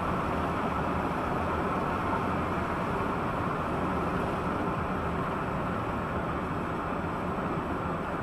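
Steady, muffled rumble of a moving vehicle, engine and road noise, as picked up by a dashcam, with no distinct impacts or changes.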